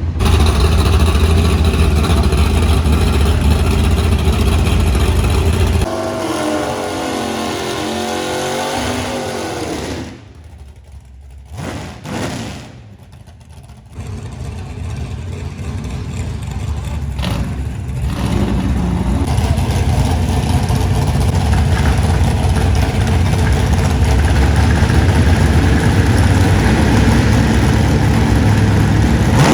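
Race car engines running and revving loud, with a wavering engine pitch about six seconds in. The engines fall away into a brief lull of a few seconds, then the noise builds again and stays loud.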